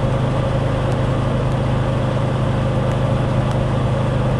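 Ford F-600 grain truck's engine running at a steady speed while the loaded truck is driven, a steady low drone with road noise.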